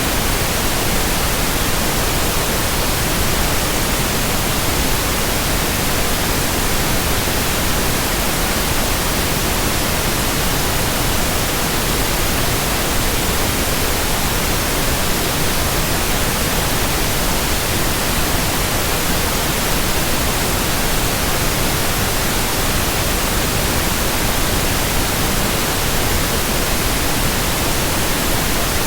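Steady white noise: an even, unchanging hiss spread evenly from low to high pitch, with no hum, tone or rhythm in it.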